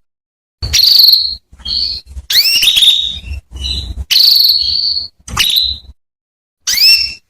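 Female canary calling: short, high, whistled calls that sweep upward, mixed with a few held buzzy notes, coming in quick groups with sudden gaps between them. These are the calls played to male canaries to set them singing.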